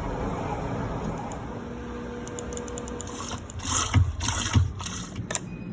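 Laboratory equipment running with a steady mechanical hum, then a quick series of clicks and knocks, the two loudest about four and four and a half seconds in.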